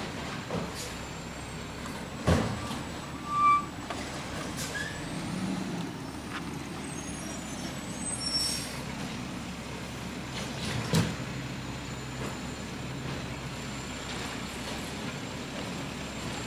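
Garbage truck engine running steadily, with two sharp bangs about two seconds and about eleven seconds in, and a short hiss around eight seconds in.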